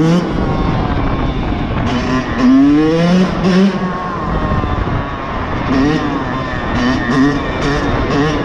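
Motorcycle engine running while riding, its pitch rising sharply twice as the throttle is opened, over heavy low wind rumble.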